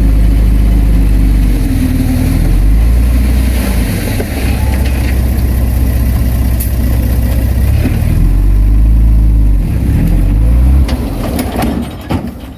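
Heavy earthmoving machine's diesel engine running loud, its pitch stepping up and down several times as the load and revs change, then dropping away sharply near the end.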